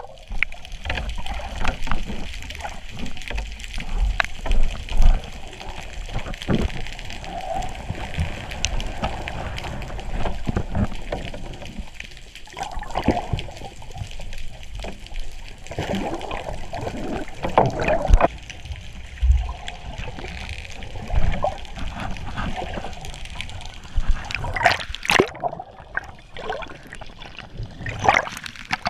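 Sea water sloshing, splashing and gurgling in irregular bursts, with occasional low thuds.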